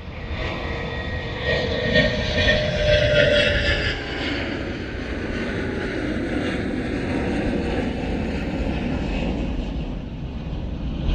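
Boeing 717 jet landing, the noise of its two rear-mounted Rolls-Royce BR715 turbofan engines and the airflow around it: a loud steady rush with a whining tone, loudest about two to four seconds in.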